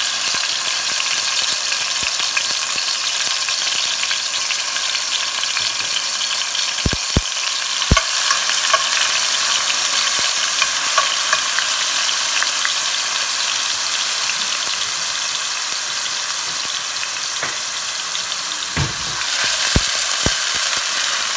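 Minced onion and garlic sizzling in hot oil in a non-stick frying pan, a steady hiss, while a spoon stirs them. The spoon knocks against the pan a few times about seven seconds in and again near the end.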